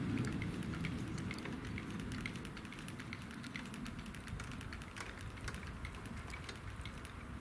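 Passenger train rumbling away after passing over a level crossing, its low rumble slowly fading, with many irregular light clicks throughout.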